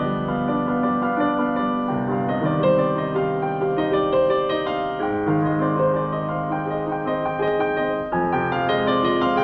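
Solo piano playing a prelude: sustained chords with notes changing about once a second and a melody above them.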